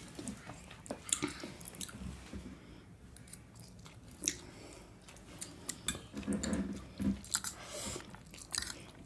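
Close-miked eating: chewing and mouth sounds with irregular small clicks and smacks, busier about two-thirds of the way through.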